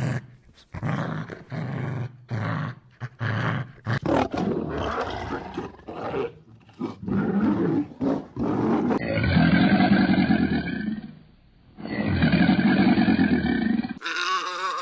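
Animal calls edited back to back: a run of short, loud calls, then two long, deep roars of about two seconds each, and a new, higher call near the end.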